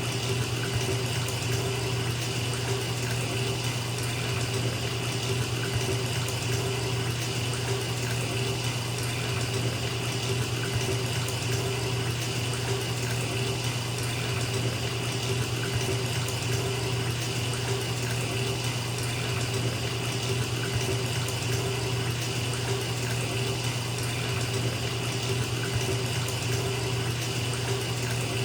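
Bathtub filling from the tap: water pouring steadily into the tub with an even rushing sound and a low hum underneath.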